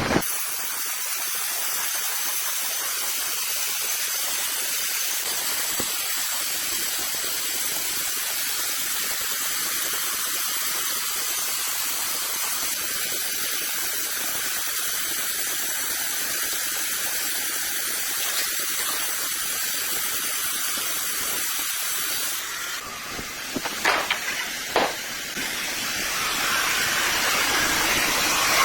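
Sawmill saw cutting through a rosewood log: a steady high hiss with little low rumble, which changes character about three-quarters of the way through, where two sharp knocks come a second apart, then grows louder near the end.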